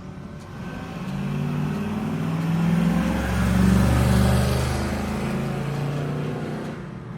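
Small-block Chevy 350 V8 in a 1934 Plymouth coupe hot rod, running and revving. It swells to its loudest about four seconds in, then dies back down.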